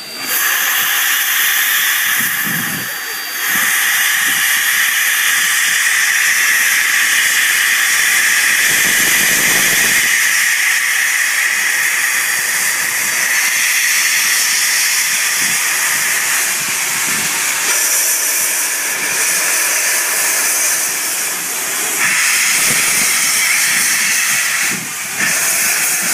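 Steam locomotive venting steam: a loud, steady hiss that starts suddenly, eases briefly about three seconds in and again near the end.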